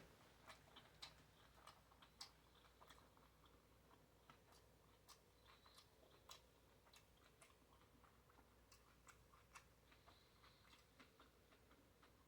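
Faint chewing of a bacon cheeseburger: irregular soft mouth clicks and smacks, a few a second.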